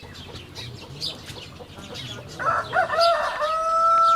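A rooster crowing about halfway through: a few short opening notes, then one long held note. Small birds chirp faintly before it.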